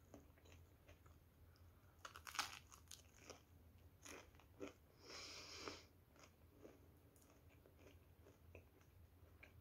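Faint close-up biting and chewing of soft homemade sweet raisin bread, with a cluster of crisp crunches about two to three seconds in. A short breathy hiss comes about five seconds in.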